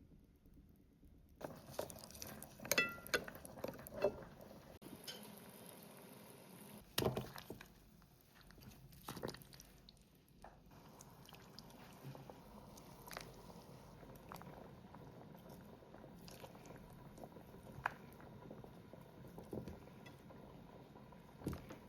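Light clinks and knocks of dishes, bowls and utensils being handled, the loudest a few seconds in, one of them ringing briefly like glass or china, over a faint steady background.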